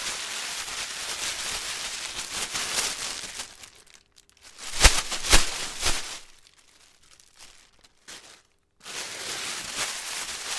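Plastic being crinkled and crumpled, a dense crackle for about four seconds. Around the middle come three sharp, louder snaps, then a short near-quiet pause, and the crinkling starts again about nine seconds in.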